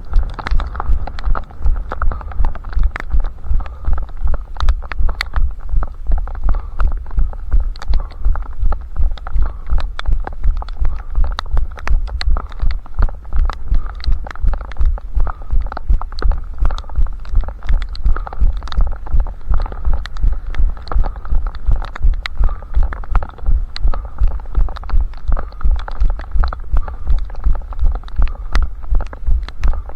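A runner's footfalls thud steadily at a little under three strides a second, picked up through the body by a head-strapped camera, with small clicks and rattles over the top.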